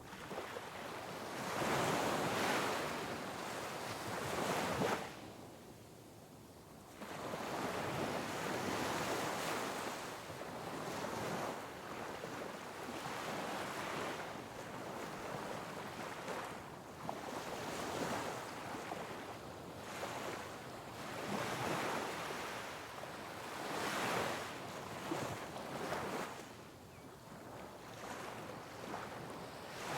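Sea waves breaking and washing over rocks, in repeated surges every few seconds with a brief lull about five seconds in. Some wind buffets the microphone.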